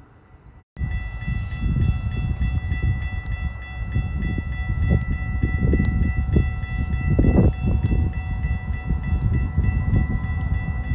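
A train approaching a station: a continuous low rumble with uneven swells and a steady high-pitched whine over it, starting abruptly about a second in.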